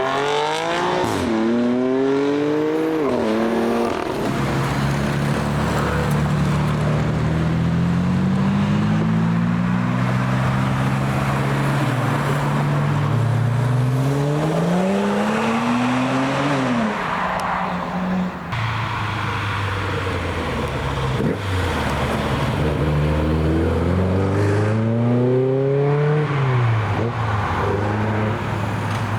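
Cars pulling away one after another, their engines revving up through the gears in several rising sweeps with shifts between them. Steadier engine running fills the gaps.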